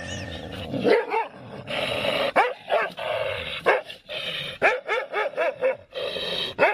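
A dog barking and yipping, with a quick run of short yips about two-thirds of the way through.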